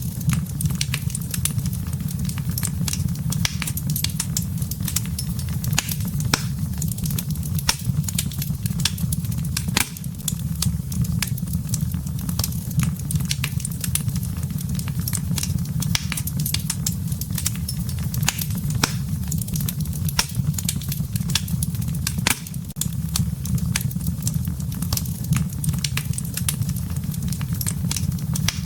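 Wood fire crackling: constant sharp pops and snaps of burning wood over a steady low rumble of the flames.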